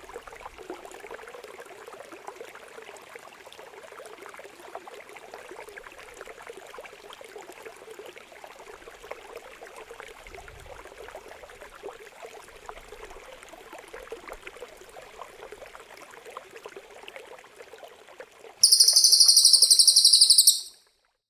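Trickling water, a steady gurgle with fine splashing ticks. Near the end a much louder, harsh, rapid rasping bird call cuts in for about two seconds and stops abruptly.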